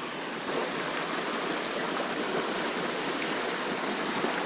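Creek water rushing and splashing over rocks, a steady noise that gets a little louder about half a second in.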